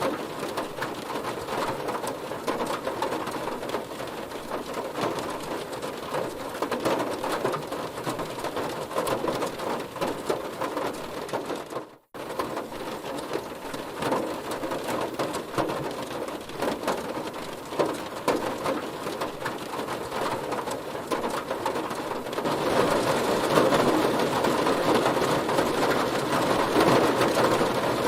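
Heavy rain drumming on a car's roof and body, a dense patter of drops. The sound drops out for a split second about twelve seconds in, then comes back and grows louder for the last five seconds.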